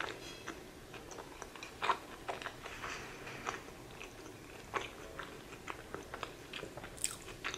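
Close-miked chewing of a mouthful of sweet potato tempura sushi roll: scattered wet mouth clicks and light crunches from the tempura, with a louder flurry near the end.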